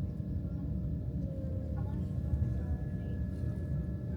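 Steady low rumble of a moving vehicle, with a faint thin steady tone above it.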